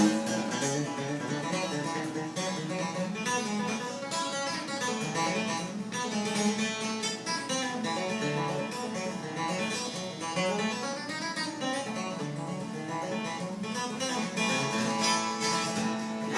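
Acoustic guitar picking and strumming an instrumental introduction, a stream of bright plucked notes and chords.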